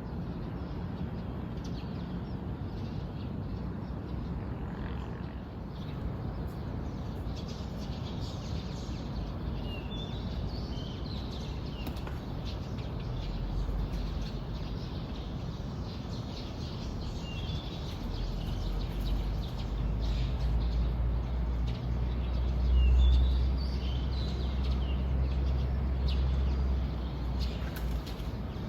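Wild birds chirping outdoors in short, scattered high calls, busiest about a third of the way in and again later. Under them runs a steady background hiss and a low rumble that swells in the second half and is loudest a little past two-thirds through.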